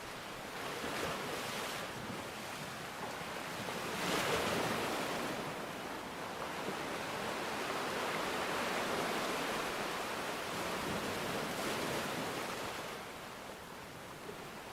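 Rushing water noise that swells and ebbs in slow surges, loudest about four seconds in and easing near the end.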